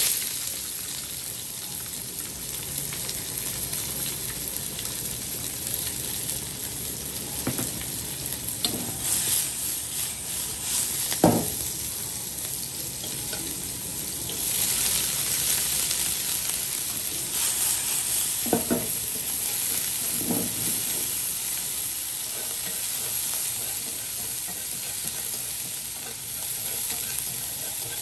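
Chopped garlic and red chilli sizzling in hot oil in a wok, with a sharp hiss as they hit the oil at the start. A few knocks of a utensil against the pan, and the sizzle grows louder about halfway through as sliced spring onions go in.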